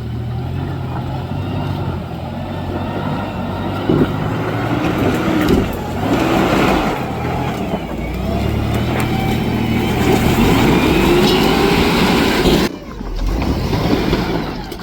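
Off-road truck engine revving up and down in repeated surges as it works over rough trail. The sound changes abruptly near the end.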